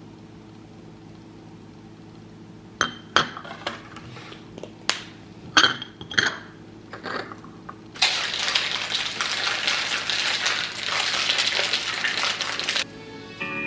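Kitchenware clinking: a run of about eight sharp clinks and knocks of dishes, glass or utensils. Then a steady hiss for about five seconds that cuts off suddenly.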